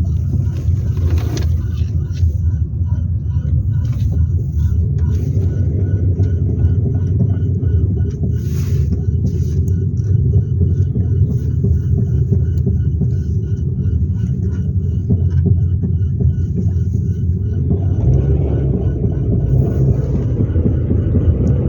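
A 2003 Hyundai Elantra on the move: a steady low rumble of road and engine noise, with faint regular ticking above it, growing fuller from about 18 seconds in.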